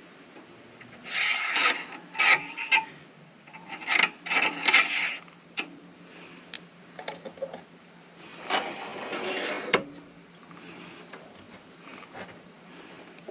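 A turning tool scraping an acrylic pen blank spinning on a midi lathe, in several irregular cuts of half a second to a second each, over the lathe's faint steady hum. Crickets chirp as a steady high tone behind it.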